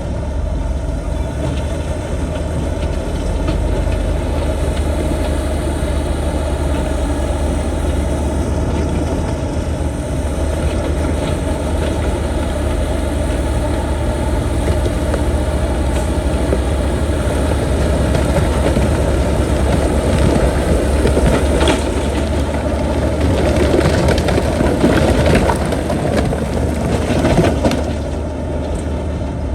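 Heavy earthmoving machine's diesel engine running steadily, with a louder, rougher stretch of several seconds near the end.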